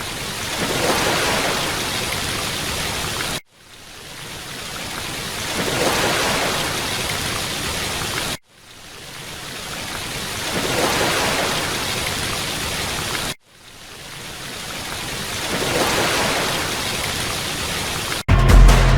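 Looped rushing-water sound, a waterfall or heavy-rain recording about five seconds long repeating: each pass swells up from nothing, holds, then cuts off abruptly. Music comes in near the end.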